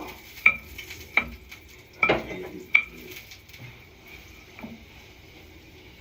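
Metal kitchen utensil clinking against a pot or bowl while cooking, about five sharp clinks in the first few seconds, over a faint hiss.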